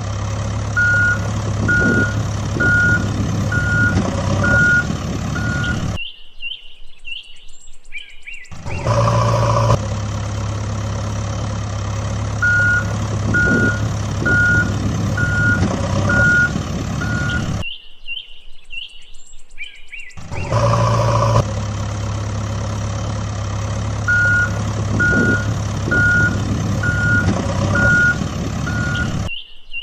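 Heavy truck engine running steadily with a reversing alarm beeping, six beeps about once every three-quarters of a second; the same sequence repeats three times, broken twice by short gaps where the engine drops out and high chirps are heard.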